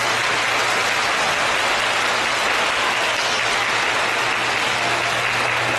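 Audience applauding steadily after a live performance, the dense sound of many hands clapping at once.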